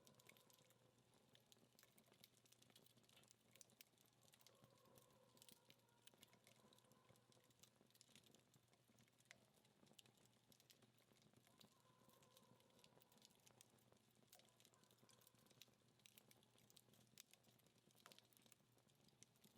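Very faint, irregular crackling and small pops from a wood fire burning down to embers. A faint wavering tone comes and goes twice in the background.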